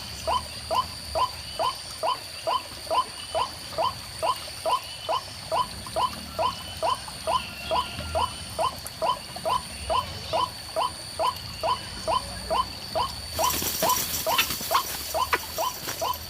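White-breasted waterhen call: short rising notes repeated evenly, about three a second, in a long unbroken series. Near the end, loud rustling and clicks join in.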